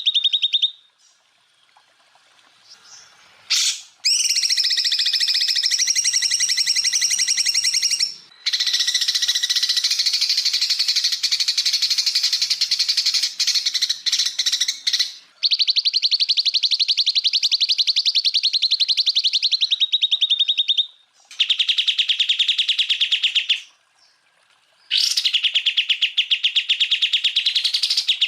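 Greater green leafbird (cucak ijo) singing 'tembakan': long, loud runs of very fast repeated notes, each run lasting several seconds, separated by short pauses.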